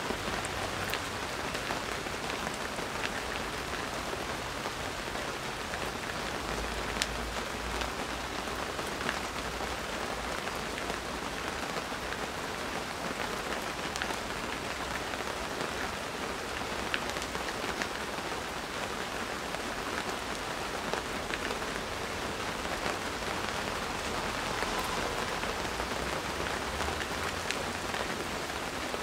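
Steady rain falling in a garden, an even patter with occasional sharper single drop hits.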